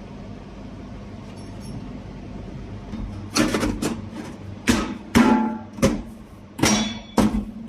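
Food dehydrator's fan running with a steady low hum, then from about halfway in a series of six or seven loud, irregular knocks and clatters, like hard plastic parts being struck or handled.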